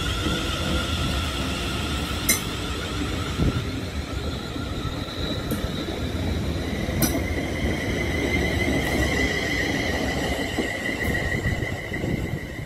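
Class 360 electric multiple unit running past on the rails: a continuous rumble of wheels on track with high, whining tones above it. A strong steady whine comes in about seven seconds in. There are two sharp clicks, about two and seven seconds in.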